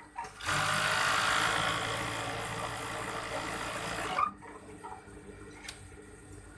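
Overdeck (coverstitch) sewing machine starting after a short pause, running steadily for nearly four seconds, then stopping abruptly; a faint click comes later in the quiet.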